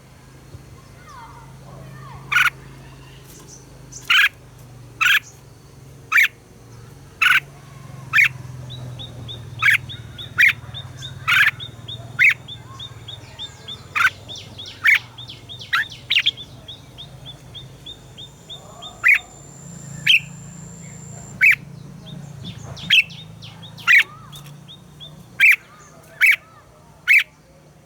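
Red-whiskered bulbuls calling: sharp, short notes at about one a second, with a fast high trill running under them for several seconds in the middle and again near the end.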